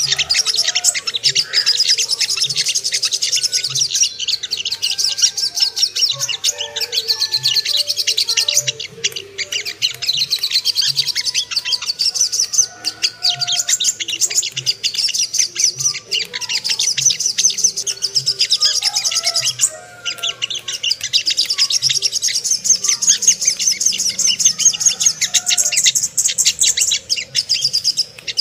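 Sogok ontong (sogon) bird singing a rapid, high-pitched chattering song almost without pause, broken by a few brief gaps. It is a lure recording meant to provoke rivalry and breeding excitement in captive birds of the species.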